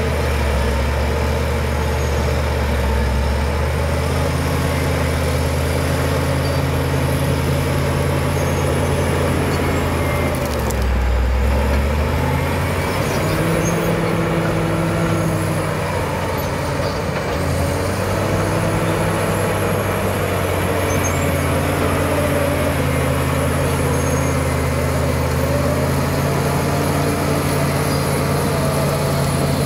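Caterpillar D7 crawler bulldozer's diesel engine running under load, its pitch dipping about ten seconds in and recovering, then shifting again as the machine works, with a faint high whine over it.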